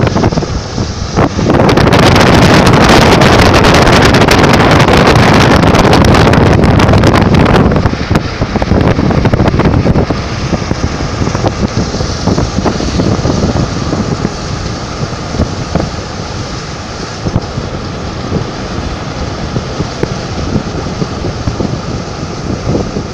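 Storm wind buffeting the microphone hard for about the first eight seconds, then easing to a quieter, steadier rush with scattered light ticks, as of rain, to the end.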